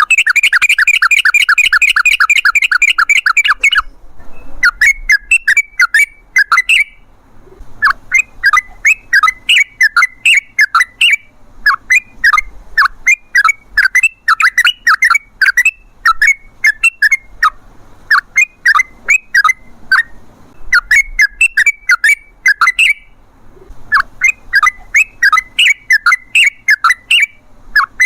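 Yellow-vented bulbul (trucukan) singing a long rolling (ropel) song. It opens with a fast, dense trill of repeated notes for about four seconds, then continues in bursts of quick, bubbly chattering notes, phrases a few seconds long with short pauses between them.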